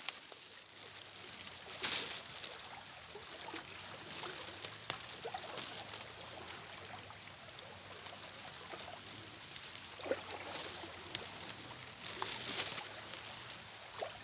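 Water trickling and sloshing, with a few louder splashes, the strongest about two seconds in and near the end.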